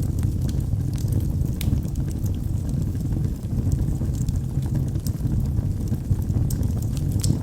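Wood logs burning in a fireplace: a steady low roar with scattered crackles and pops.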